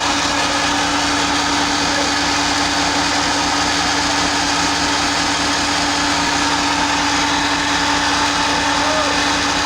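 Ship's engine running steadily: a loud, even machinery din with a constant hum underneath.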